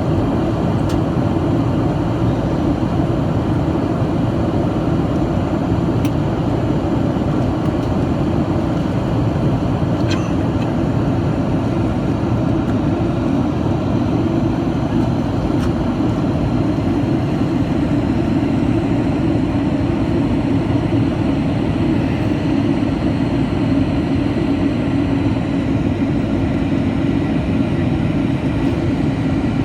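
Steady cabin noise inside a Boeing 737-800 in flight: the even rumble of its CFM56-7B turbofans and the airflow over the fuselage, with a few faint ticks.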